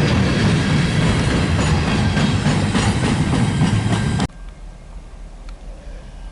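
Train passing close by, wheels clattering over the rail joints, loud and steady; it cuts off abruptly about four seconds in, leaving a much quieter background with a few faint clicks.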